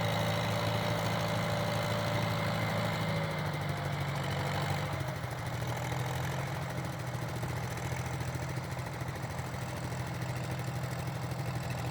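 1950 Farmall tractor engine idling steadily, easing slightly quieter about four seconds in.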